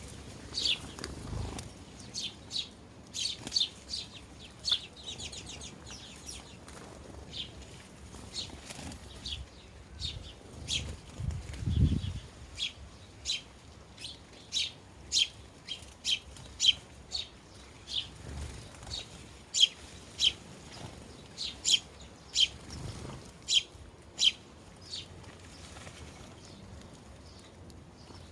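Sparrows chirping: many short, sharp chirps, often in quick runs. A few soft low thumps come in among them, the strongest about twelve seconds in.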